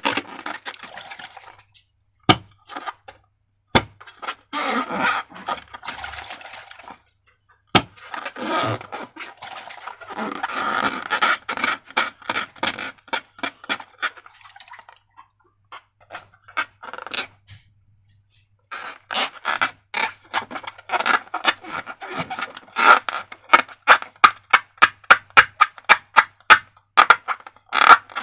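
Thick slime being squished and worked by hand: wet, sticky squelching with a few sharp clicks in the first eight seconds, then a fast run of squelchy clicks at about four a second in the last third.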